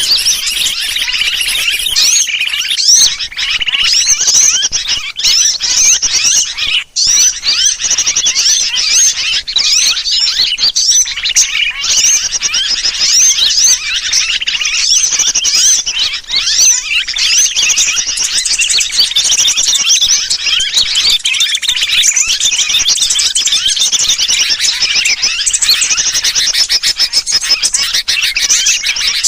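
Dense, unbroken chatter of many small birds chirping and trilling at once, mixed with sooty-headed bulbul (kutilang) distress calls. It is a bird-trapping lure recording (suara pikat), meant to draw wild birds in with the sound of a flock in alarm.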